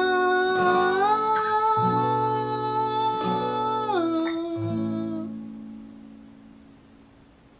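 End of an acoustic song: a voice holds long wordless notes that step down in pitch over plucked acoustic guitar chords, then the music dies away about five seconds in.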